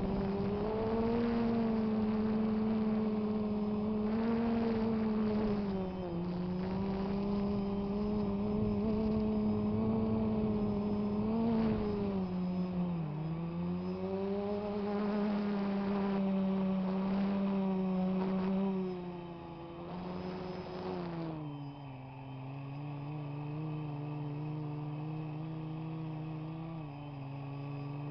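DJI Phantom quadcopter's propellers humming in flight, a steady pitched drone that wavers up and down a little as it manoeuvres. About twenty seconds in the pitch drops lower and it gets quieter.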